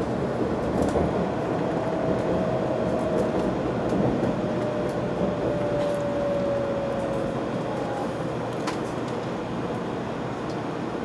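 800 series Shinkansen running noise heard from inside the car: a steady rumble and hiss of the train on the track, with a thin motor whine that falls slowly in pitch as the train slows for the Kumamoto terminus.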